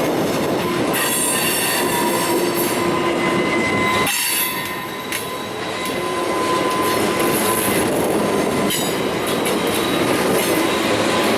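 Train rolling past, its steel wheels squealing against the rails in steady high tones over the running noise of the cars, with a short drop in loudness about four seconds in.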